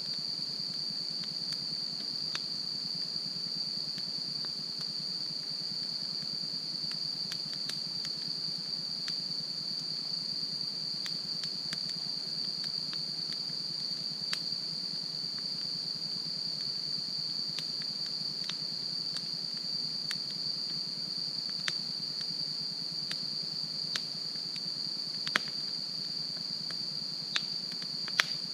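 Wood campfire crackling with scattered sharp pops, a few louder ones near the end, over a steady high-pitched chorus of crickets or other insects.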